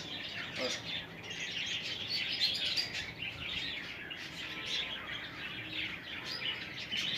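Many budgerigars chirping and chattering together, a continuous, busy twittering.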